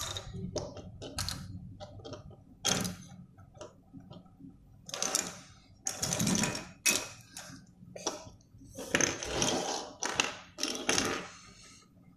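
Loose plastic pieces of a disassembled 3x3 puzzle cube clicking and scraping as they are picked up, moved and set down, in irregular clicks with a few longer rustling scrapes, over a faint low hum.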